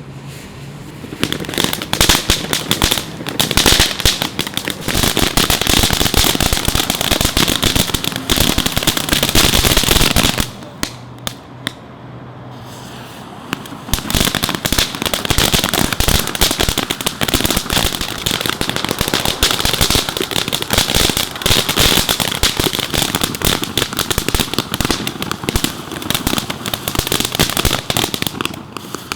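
Fireworks going off in a dense run of rapid crackling pops and bangs, breaking off for about three seconds partway through and then starting up again.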